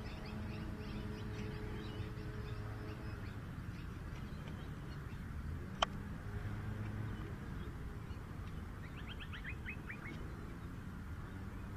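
Outdoor ambience with birds calling: scattered high chirps, then a quick run of about seven chirps near the end. A single sharp click sounds about halfway through, over a low background hum.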